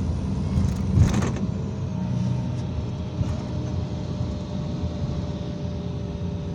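IVECO Crossway 13M PRO city bus under way, heard from inside: a steady low engine and road rumble with a faint whine, and a sharp knock about a second in.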